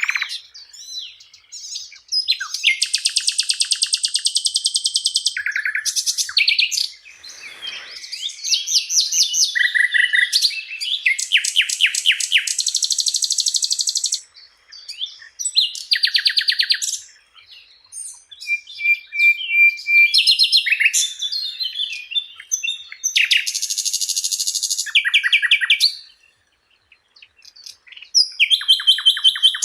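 Sikatan londo flycatcher singing: a varied run of fast high trills and buzzy, rapidly repeated notes in phrases of one to three seconds, broken by short pauses.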